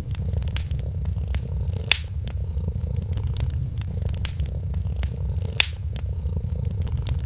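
A cat purring steadily in a low rumble, over a crackling fireplace fire with scattered pops, two of them louder, about two seconds in and at about five and a half seconds.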